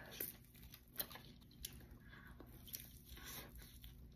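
Close-miked biting and chewing of a crispy, seasoned breaded fried chicken piece, with crunches and two sharper crackles about one and one and a half seconds in.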